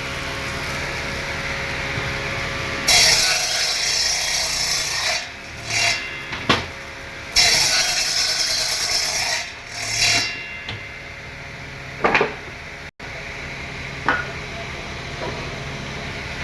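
A woodworking power tool runs with a steady hum and twice bites into wood with a harsh, hissing cut lasting two to three seconds each. There are also a few sharp knocks, the loudest about six seconds in.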